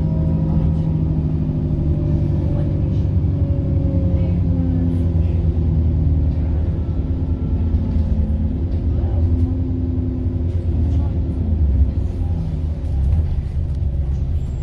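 Diesel bus engine and turbocharger heard from inside the bus as it drives: a steady low rumble with a faint whine that slowly falls in pitch over the first few seconds.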